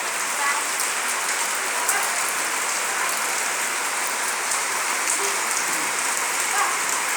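Steady rain pouring down, a dense even hiss with scattered ticks of drops hitting surfaces.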